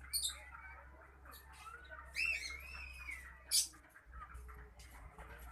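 Pet cockatiel chattering softly and whistling, with a warbling whistled phrase about two seconds in and a sharp high chirp a little over three seconds in.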